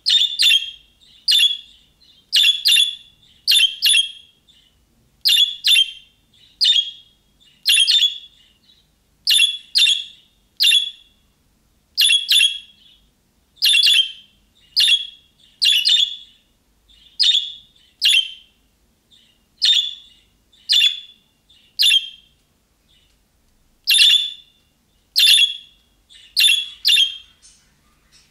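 Budgerigar calling: short, sharp chirping calls repeated every second or so, sometimes in quick pairs, with brief pauses between.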